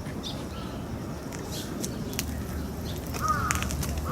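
A crow cawing, two short harsh calls near the end, over a faint low outdoor rumble.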